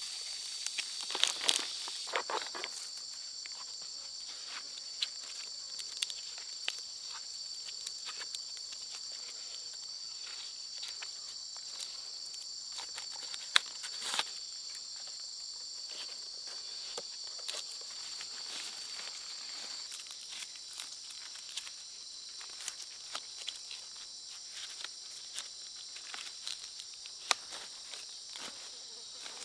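Insects buzzing in a steady, high-pitched chorus, with scattered sharp clicks and snaps over it; the loudest come in a cluster in the first few seconds and as a single snap about 13 seconds in.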